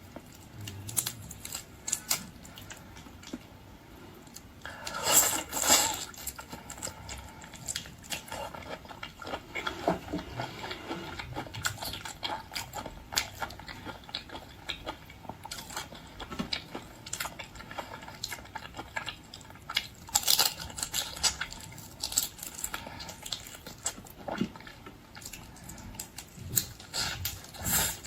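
Close-up mouth sounds of someone eating marinated shrimp: wet biting, sucking and chewing with irregular clicks and crunches, and a few louder bursts along the way.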